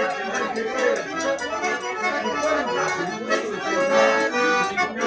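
Accordion-led traditional dance music, forró style, with a quick steady percussion beat.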